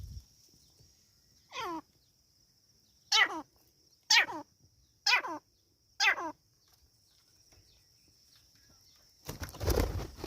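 Teetar (partridge) calling: five short calls that drop sharply in pitch, about one a second, followed near the end by a louder burst of noise.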